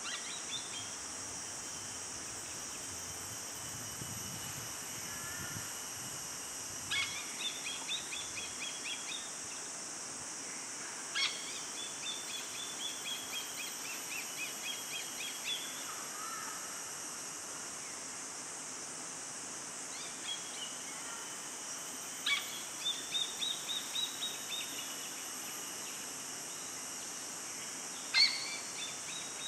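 A bird calling about five times, each call a short run of quick high notes that opens with a sharp note, over a steady high-pitched hiss of forest background.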